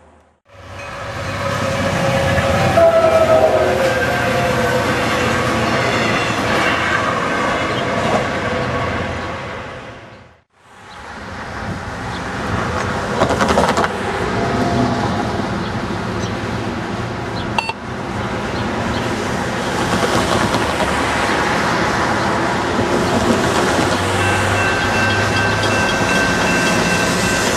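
Trains running on the rails in two takes, broken by a short silence about ten seconds in. In the second take a CSX freight train led by a GE diesel locomotive approaches over switches, its engine running and its wheels on the track. A faint steady high tone joins in near the end.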